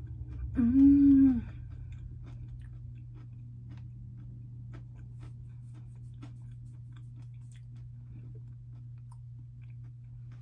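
A person chewing crunchy Cheetos pretzel snacks, with faint crunches and mouth clicks scattered throughout. About half a second in comes a short hummed "mm", the loudest sound.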